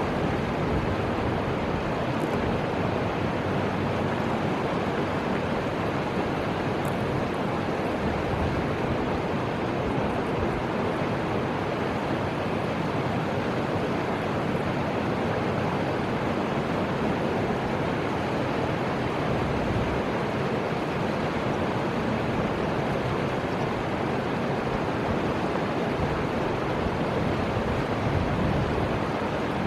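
Steady rush of flowing river water from the Fuji River, even and unchanging in level.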